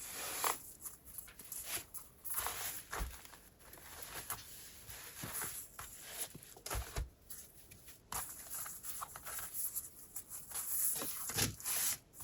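Paper and packaging rustling, with soft irregular knocks and scrapes, as a handmade paper journal is lifted out of its box and handled.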